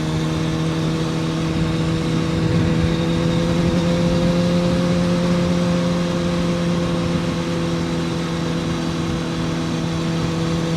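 2006 Kawasaki ZX-6R 636 inline-four engine under way in gear, its pitch climbing a little in the first few seconds and then holding steady, over wind rush.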